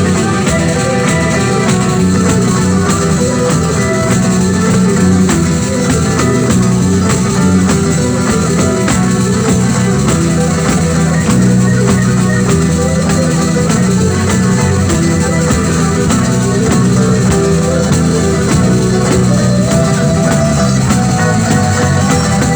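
Live pizzica, southern Italian folk dance music, played by a band with plucked guitar and percussion in a fast, steady rhythm.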